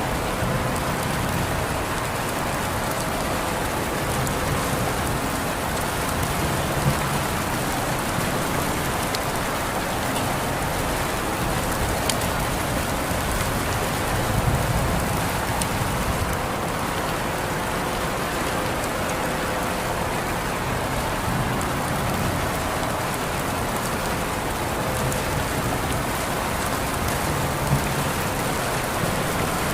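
Steady rain falling on a surface, an even hiss with scattered individual drop ticks, a few of them a little louder.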